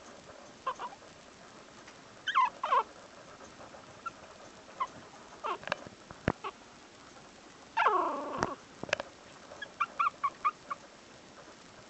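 Chihuahua puppy whimpering and yipping in short cries that fall in pitch, with a longer cry about eight seconds in and a quick run of yips near the end. A few sharp clicks fall between the cries.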